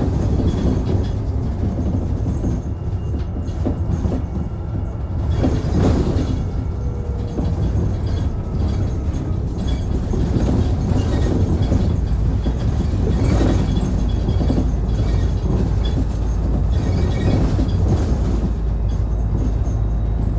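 Cabin running sound of a Mitsubishi Fuso Aero Star Eco Hybrid series-hybrid city bus on the move: a steady low rumble from the drive and road, with faint steady whine and scattered rattles and knocks from the interior.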